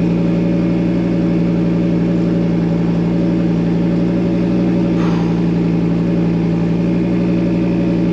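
Audi quattro Group B rally car's turbocharged five-cylinder engine idling steadily while the car waits at the stage start.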